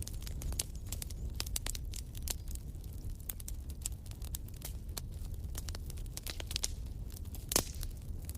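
Wood fire burning in a fireplace: irregular crackles and snaps over a low steady rumble of flame, with one louder pop near the end.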